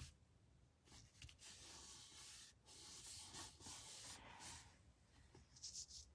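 Faint rubbing and rustling of paper and card being handled and pressed down on the work surface.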